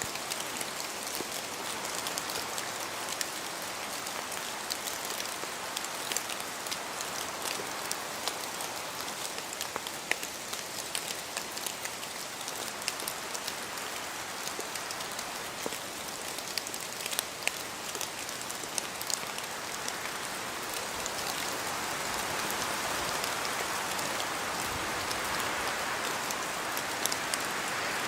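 Rain falling in a forest: a steady hiss of rainfall with many separate drops tapping close by, swelling louder over the last few seconds.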